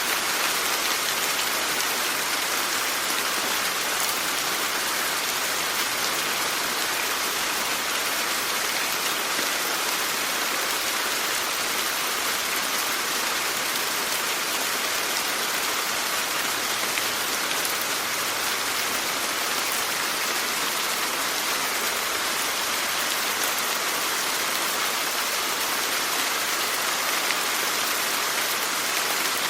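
Steady rain falling and pattering on surfaces, an even hiss of many drops with no change in intensity.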